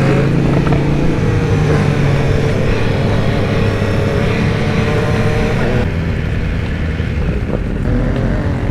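BMW S1000R's inline-four engine running under way, its pitch sinking slowly for several seconds before changing near the end, over wind and road rush.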